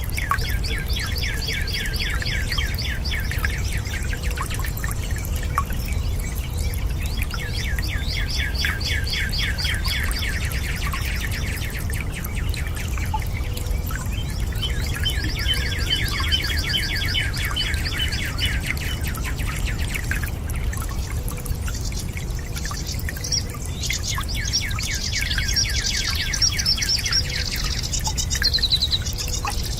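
A songbird singing fast trills of rapidly repeated high notes, in bouts of several seconds with short pauses between, over a steady low rush of water.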